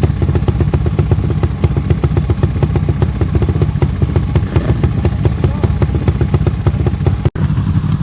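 Sport motorcycle engines running loudly at a track, with a dense rapid pulsing. About seven seconds in, the sound drops out for an instant.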